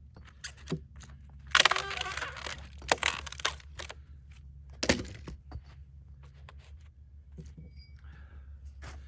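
Split cedar wood being handled: a loud scraping, tearing rush about a second and a half in, then a few sharp knocks and small clicks of wood on wood.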